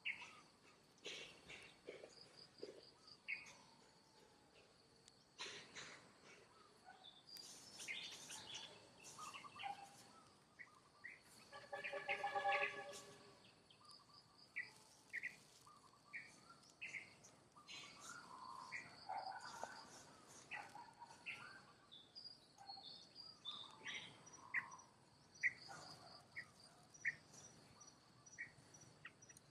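Natural outdoor ambience: a steady high insect chirring with many short bird chirps scattered throughout. About twelve seconds in, one louder pitched animal call lasts a second or two.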